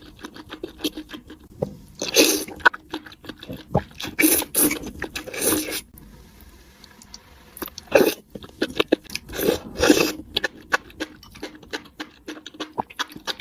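Close-miked eating: crunching and chewing of food, with dense small clicks throughout and several louder crunchy bursts, the biggest around two seconds in, from about four to six seconds, and around eight and ten seconds.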